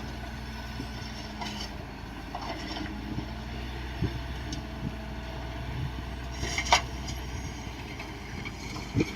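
Shantui DH17C2 bulldozer's diesel engine running steadily, with a few sharp metallic clanks; the loudest comes about two-thirds of the way through.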